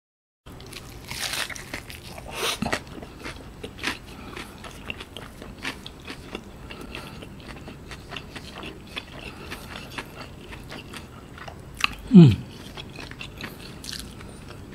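Close-miked chewing of a crispy fried-chicken Double Down sandwich: crunchy bites into the breaded fillet, then steady wet chewing with small crackles. About twelve seconds in, a short falling vocal sound from the eater, the loudest moment.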